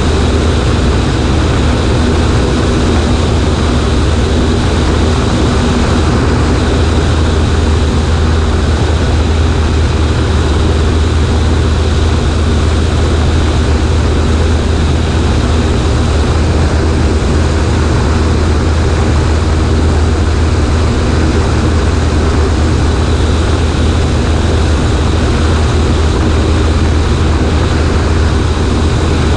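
Cessna 140A's piston engine and propeller running at a steady, unchanging drone, with a loud rush of airflow over the wing.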